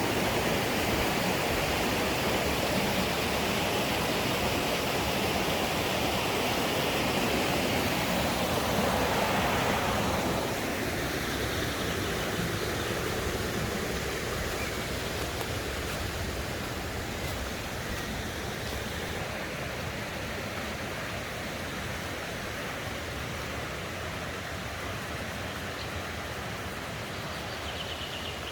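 Mountain stream rushing over rocks, a steady wash of water. It is loudest for the first ten seconds or so, then drops off and keeps fading slowly.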